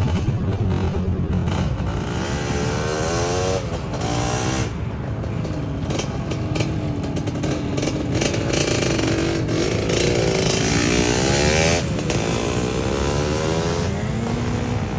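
Motorcycle engines running, with a bike revving up several times, its pitch climbing and dropping back.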